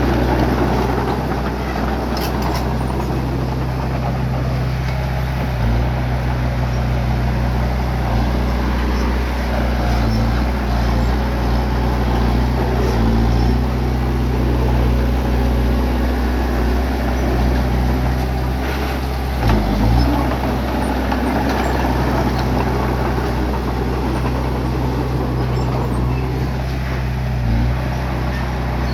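Bulldozer's diesel engine running steadily under load, with a few faint knocks.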